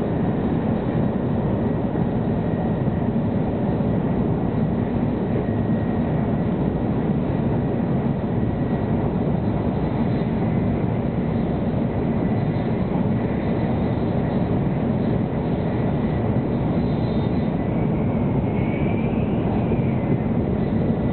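Interior running noise of a 700 Series Shinkansen at speed, heard inside the passenger cabin: a steady, even low rumble and rush. A faint high whine holds steady underneath.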